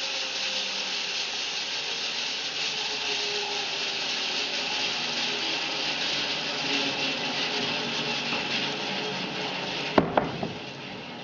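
Home-built bandsaw mill's blade sawing through a fir log with a steady rasping hiss. A few sharp knocks come about ten seconds in, and the sound then drops away.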